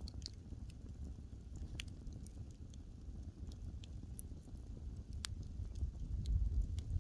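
Wood fire crackling: scattered sharp pops and snaps over a low rumble from the burning logs, with one sharper pop a little after five seconds in and the rumble growing louder near the end.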